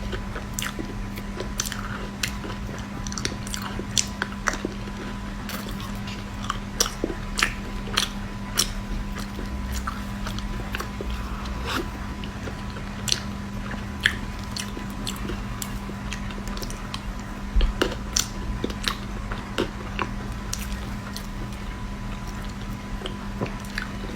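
Close-miked eating sounds: a person biting and chewing a chocolate cake, with many irregular sharp mouth clicks and smacks. A steady faint hum runs underneath.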